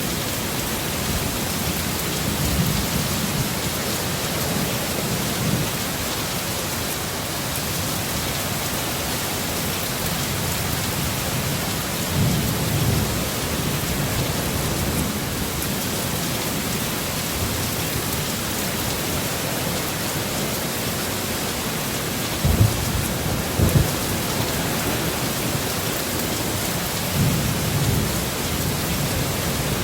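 Heavy, steady rain in a thunderstorm, with low rumbles of thunder swelling and fading several times and two sharper low thuds about a second apart a little past two-thirds of the way through.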